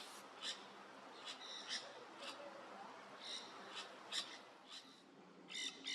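Nanday parakeets calling: faint, scattered short calls, then a quick run of louder, harsh screeches near the end.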